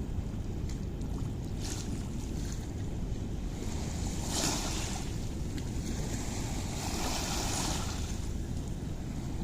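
Steady rushing of flowing water with a campfire crackling, a few faint pops and hissy swells over the water's rush.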